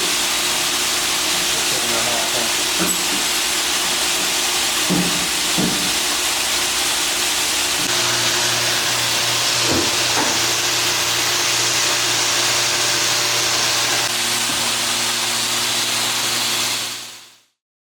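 Steady loud hissing rush from a cleaning tool blasting dirt out of a truck, with a low hum joining about eight seconds in; it cuts off near the end.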